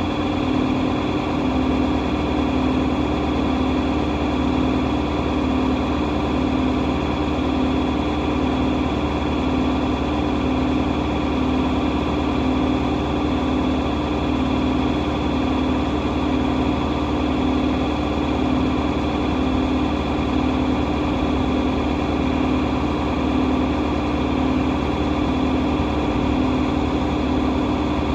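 John Deere 4230 tractor's diesel running at a steady speed, driving a New Holland 355 grinder-mixer through the PTO. A constant mechanical drone with a strong hum and a slow, regular pulse about once every second or so.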